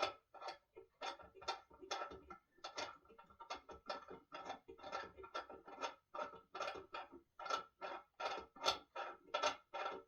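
Rhythmic clicking from a hand tool turning a fastener during assembly of a wooden table, about two to three strokes a second with a brief lull about six seconds in.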